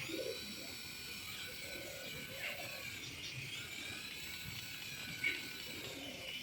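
Toy helicopter's small electric motor and rotor running with a steady high-pitched whine.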